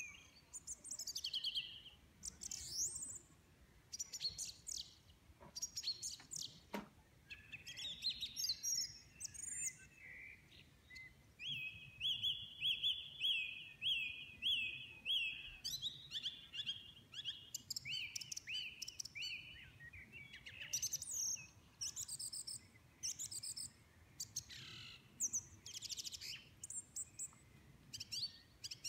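A songbird singing a long, varied song of whistled phrases: quick sweeping notes, trills and high chirps, including a run of evenly repeated notes, with short pauses between phrases.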